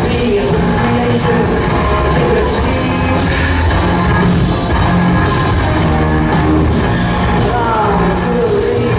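Rock band playing loud, heavy rock live, with singing.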